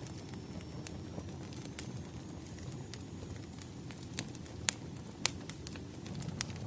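Wood fire crackling: irregular sharp pops and snaps over a low steady rumble of burning logs, with two louder pops a little after the middle.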